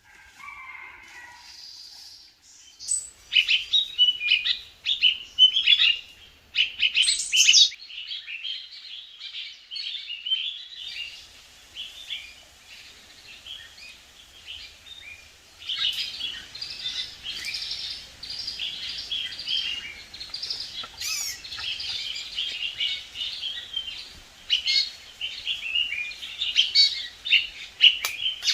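Birds chirping: many short, high calls in quick succession, starting about three seconds in and growing busier in the second half.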